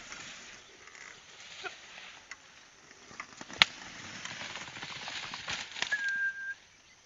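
Outdoor field sounds while a field is being plowed: scattered clicks and knocks, one sharp crack about three and a half seconds in, and a short steady high whistle near the end.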